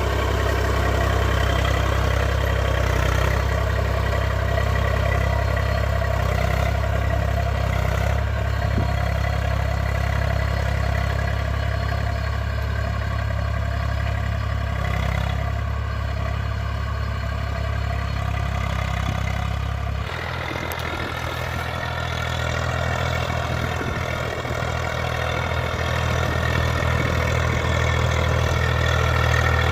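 Farm tractor's diesel engine running steadily; about two-thirds of the way through the engine note shifts abruptly to a different low hum and carries on steady.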